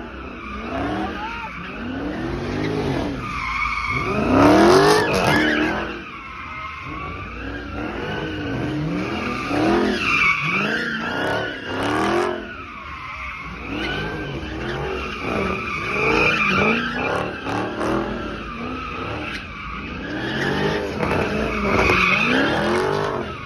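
A car engine revving hard up and down over and over while the tyres squeal continuously: a car spinning, doing burnouts or donuts.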